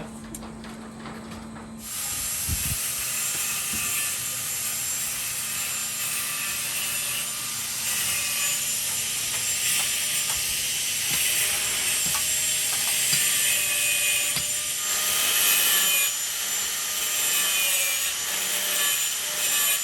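A handheld power cutting tool running under load, a dense noise with steady whining tones. It starts suddenly about two seconds in and keeps cutting steadily.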